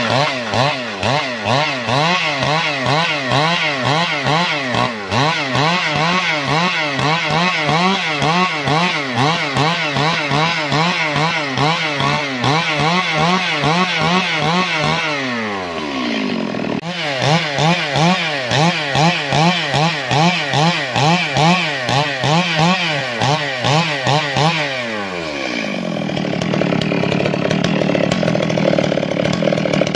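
Two-stroke chainsaw running hard, its engine note rising and falling in quick, even pulses. Twice the pitch glides down toward idle, about halfway through and again near the end, where it runs steadier.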